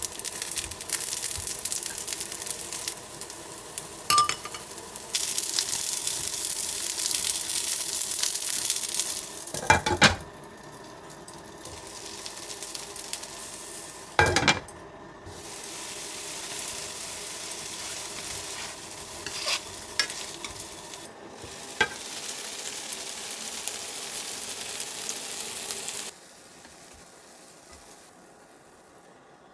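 Egg-coated shiitake mushrooms sizzling in oil in a frying pan, with a few light chopstick taps. A glass pan lid clanks on about ten seconds in, muffling the sizzle, and clanks off again about four seconds later; the sizzling stops near the end.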